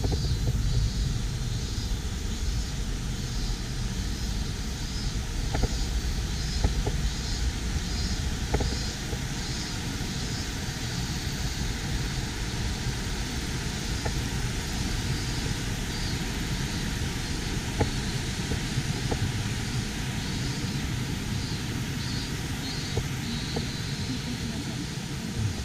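Steady rush of running water from the channel beside the trail, over a low rumble. A faint high chirp repeats a little over once a second, with scattered light ticks.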